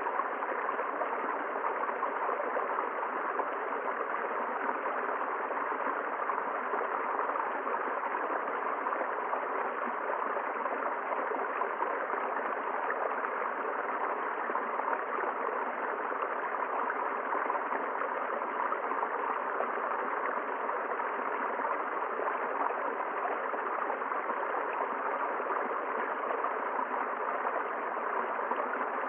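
River water flowing and gurgling steadily over rocks.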